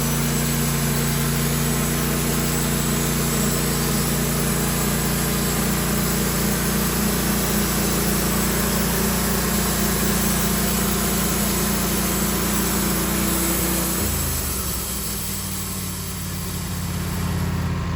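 Sawmill engine running steadily, then slowing to a lower speed about 14 seconds in, with a brief dip in loudness before it picks up again.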